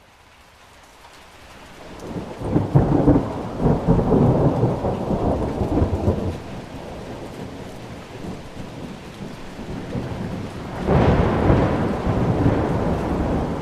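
Rain falling steadily in a rainforest thunderstorm, with rolling thunder. The rain fades in at the start. A long peal of thunder rumbles from a couple of seconds in to about six seconds, and a second peal starts near the end.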